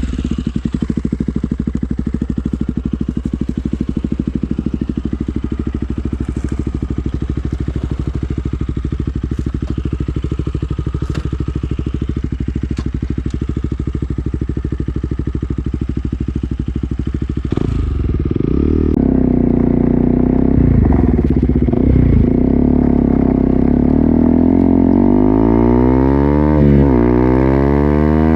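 KTM Duke 200's single-cylinder four-stroke engine through an Akrapovic full-system exhaust, idling steadily for the first seventeen seconds or so. It then gets louder, with a few quick revs followed by repeated climbs and drops in pitch as it accelerates through the gears.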